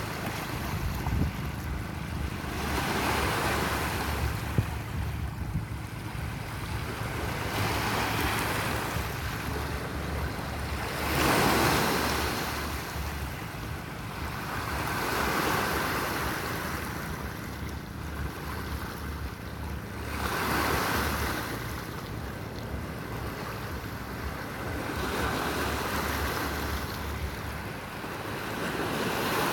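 Sea waves breaking and washing on the shore, a swell of surf noise every four or five seconds, with wind rumbling on the microphone.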